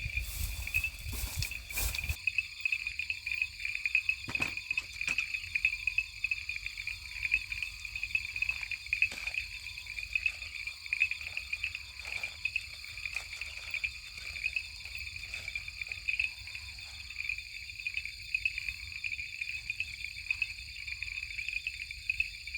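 Night chorus of frogs and insects: a steady, high, finely pulsing trill with a few fainter high bands over it, broken by occasional faint clicks.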